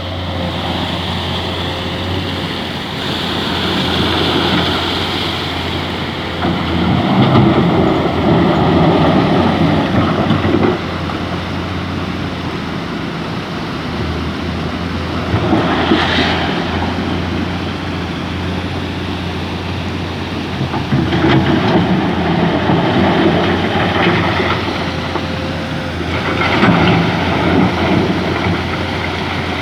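Mining excavator's diesel engine running steadily, swelling louder several times as the machine works dredging sand.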